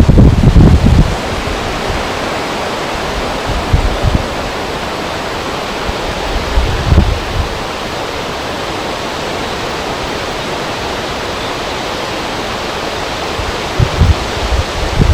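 Wind over a river: a steady rushing hiss, with occasional gusts rumbling low on the microphone, strongest at the start and near the end.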